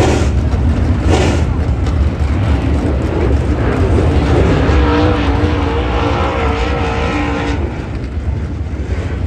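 Dirt late model race cars running, a steady low engine rumble with two short sharp bursts of noise near the start. From about four and a half seconds in, one engine holds a steady pitched note for about three seconds, then drops away.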